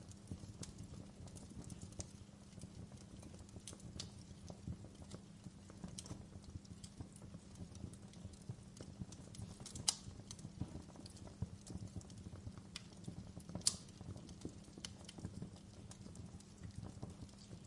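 Fireplace wood fire crackling: frequent irregular sharp pops over a steady low rumble, with two louder snaps, one just past halfway and one about three-quarters through.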